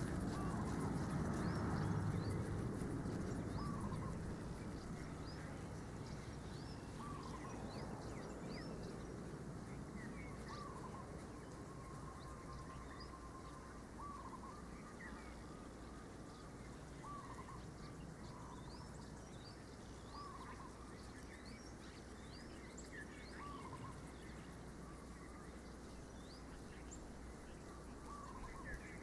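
Birds calling: short upward-curving calls repeated every second or two, with faint higher chirps, over steady outdoor background noise. A low rumble is louder in the first few seconds, then fades.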